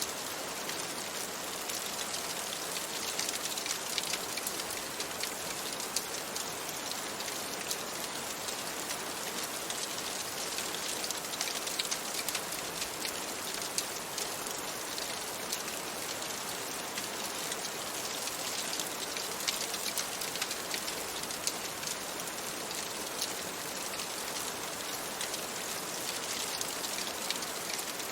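Steady rain falling, with many small sharp ticks of drops throughout.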